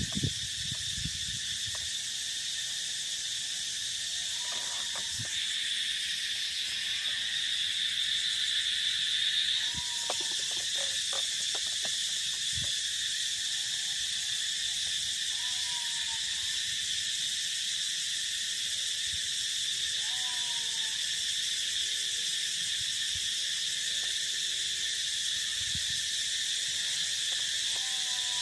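Steady high-pitched chorus of field insects, with a short animal call every few seconds.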